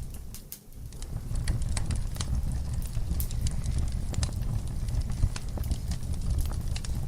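Wood fire in a fireplace crackling: irregular sharp pops and snaps over a steady low rumble of the flames. The sound drops away briefly about half a second in.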